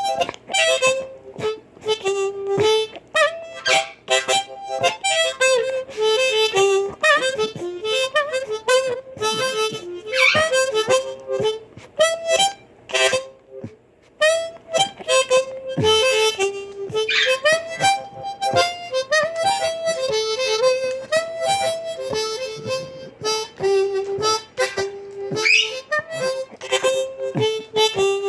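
Blues harmonica played in short, quick repeating phrases of stepping notes with sharp attacks.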